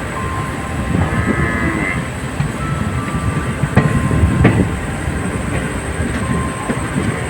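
Passenger train running along the line: a steady rumble of wheels and coaches on the track, with sharp clicks from the rail joints.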